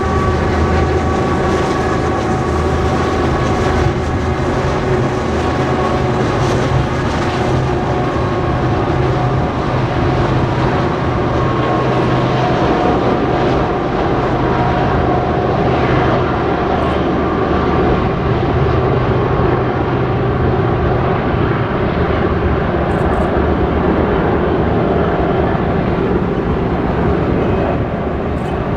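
A train passing close by, loud and steady. A deep engine hum is heard through the first two-thirds and then drops away, leaving the rumble of the cars rolling on the rails.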